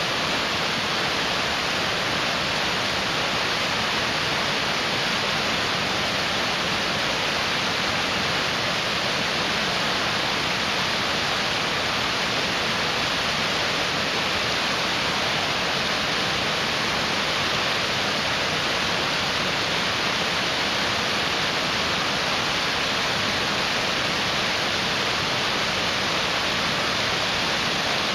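Mountain stream rushing: a steady, loud wash of fast-flowing water with no let-up.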